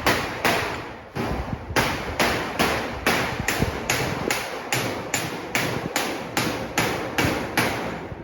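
Steady hammering on sheet-metal ductwork, about two to three sharp blows a second, each ringing briefly.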